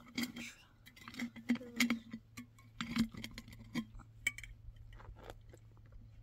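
A run of light, irregular clinks and taps, like hard objects such as glass or dishes being handled, over a steady low hum.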